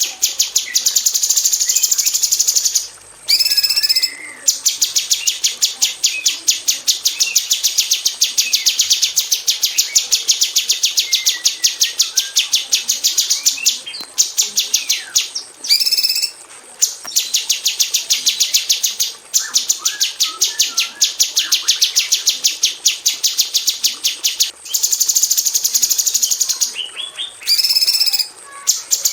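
Female orange-bellied leafbird (cucak cungkok) calling in long, dense rapid-fire runs of sharp high notes, broken by a few short pauses.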